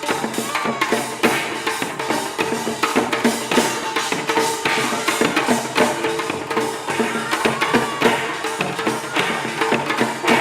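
Korean pungmul percussion ensemble playing a fast, dense rhythm: rapid drum and gong strikes over ringing metal tones.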